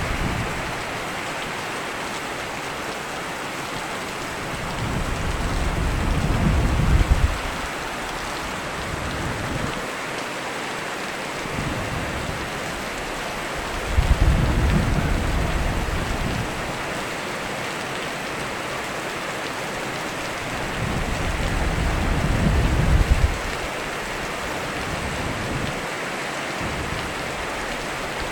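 Steady heavy rain with low rumbles of thunder that swell up three times, every seven or eight seconds, each one cutting off abruptly.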